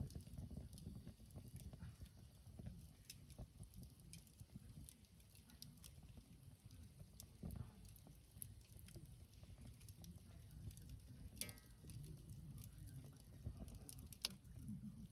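Wood campfire crackling faintly, with irregular pops and snaps over a low rumble of the flames; a couple of sharper pops come near the end.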